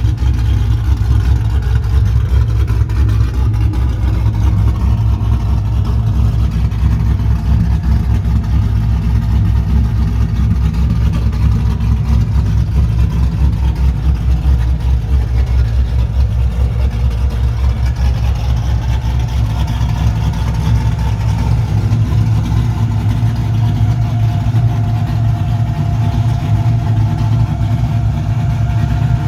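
2001 Camaro Z28's cammed 6.0-litre LS V8 (LS3 top end, 227/231 camshaft) idling steadily as it warms up after a cold start, with an even low pulsing throughout.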